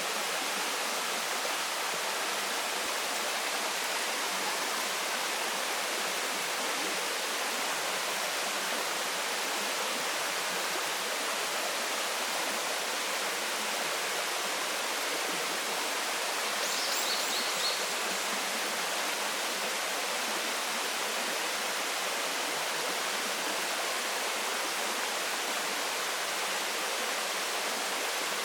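Waterfall pouring steadily, a full, even rush of falling water. About halfway through, a brief series of quick high chirps sounds over it.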